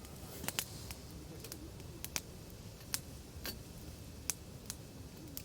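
Firewood burning in a campfire, crackling with about a dozen irregular sharp pops over a low steady rush of flame.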